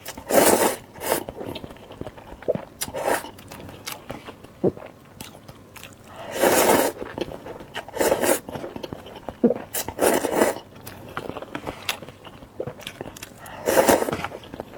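Close-miked eating of spicy instant noodles: about six loud mouth-noise bursts a few seconds apart, with softer chewing clicks between.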